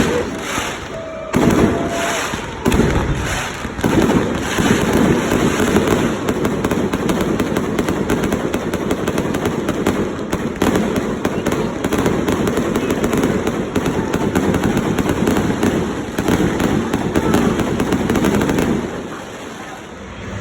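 Fireworks display: a few separate bangs at first, then a dense, continuous barrage of bursts and crackles that eases off near the end.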